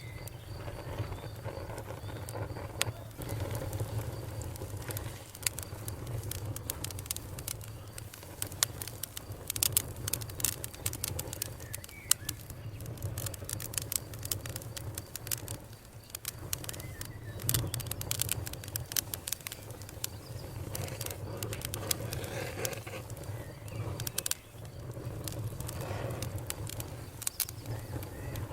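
Campfire burning: a steady low rush of flame under dense, irregular crackles and pops from the burning wood, coming in thicker flurries around the middle and again near the end.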